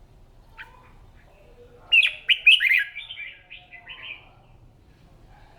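Red-whiskered bulbul singing: a single short note, then a quick run of loud slurred whistled notes lasting about two seconds, loudest at its start.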